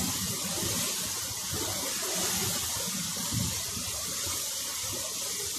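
Steady rush of water: an even hiss with a low, uneven rumble beneath it and no distinct events.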